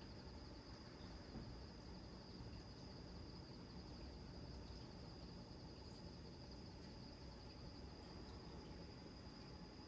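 Faint, steady night chorus of crickets and other insects trilling, over a low rumble of distant surf.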